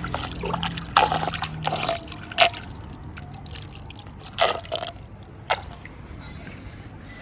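Floodwater draining into a street drain, trickling and gurgling steadily, with a few irregular sharp splashes.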